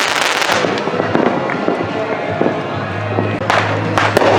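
Fireworks going off: a crackling tail dies away in the first half-second, then two sharp bangs come about half a second apart near the end. Music plays underneath.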